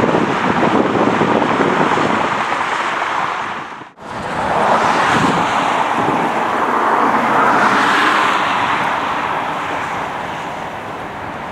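Wind buffeting the microphone over the noise of a heavy jet airliner's engines. The sound cuts out abruptly about four seconds in, then the jet noise swells and fades as the aircraft passes.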